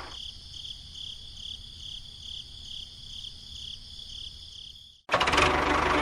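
A high chirp repeating about two and a half times a second, like an insect, over a faint low rumble. About five seconds in it cuts off abruptly and a much louder sound with music begins.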